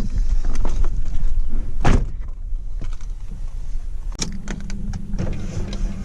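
Toyota JZX100 Mark II's turbocharged 1JZ-GTE VVTi straight-six engine running with a deep low rumble. A sharp, loud burst comes about two seconds in and a quick run of clicks around four seconds in, after which the engine settles to a steady even hum.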